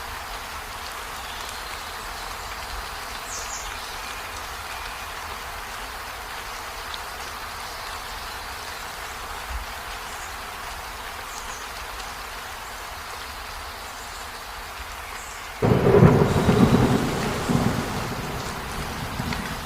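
Steady rain falling, then about three-quarters of the way through a sudden loud clap of thunder that rumbles and fades over a few seconds.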